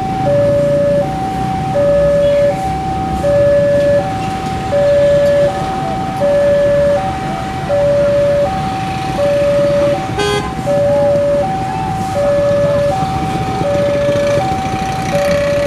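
Railway level-crossing warning alarm sounding, two electronic tones, high and low, taking turns about every three-quarters of a second, over the rumble of road traffic waiting at the crossing. A short horn beep cuts in about ten seconds in.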